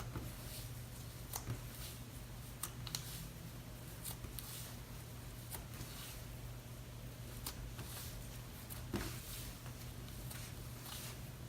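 Hands stretching and squishing cloud slime, giving faint, irregular sticky clicks and crackles, with a steady low hum underneath.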